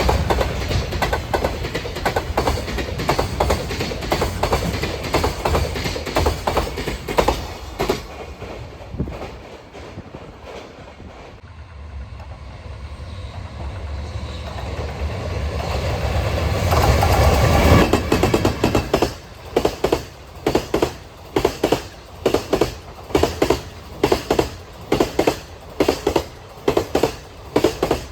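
Freight trains passing on the line. A train of wagons clatters over the rail joints and dies away. Another freight train then approaches, its sound building to a peak about two-thirds of the way through, followed by the regular clickety-clack of its wagon wheels over the joints, about two clacks a second.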